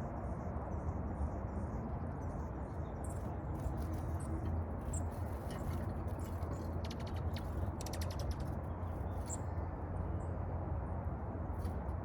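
Small birds chirping faintly, with a quick run of rapid ticking calls a little past halfway, over a steady low background rumble.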